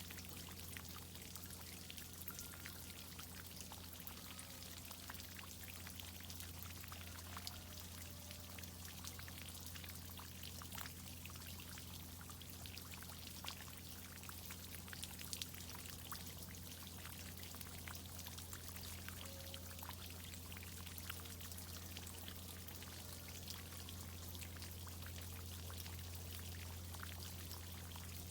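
Water from a tree-watering irrigation system pouring and pattering, with many small drips and splashes, over a steady low hum.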